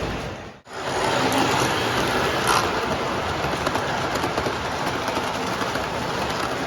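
O scale model trains running on the layout track: a steady rumble and clatter of wheels and motors. The sound drops out for a moment just after the start, and there is a single click about two and a half seconds in.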